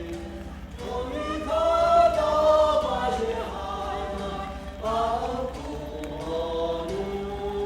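Voices singing together in long, sustained notes that glide and step in pitch, like a choir or chant. A steady low hum lies underneath.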